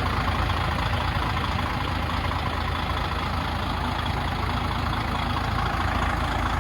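DAF XF105 510 truck's 12.9-litre PACCAR MX straight-six diesel idling steadily.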